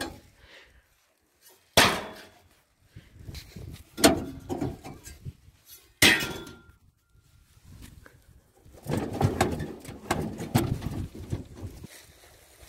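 Washing machine being wrecked: three loud metallic bangs about two seconds apart, each ringing briefly, then a couple of seconds of rattling and clattering.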